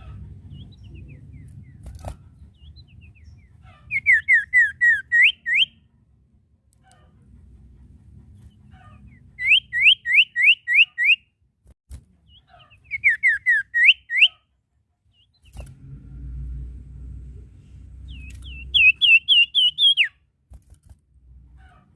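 A sirtu songbird (an iora) calling in four bouts of fast, repeated whistled notes. Each bout has about five to eight notes, some sweeping down and some sharply rising, with pauses of a few seconds between bouts. A faint low rumble sits underneath.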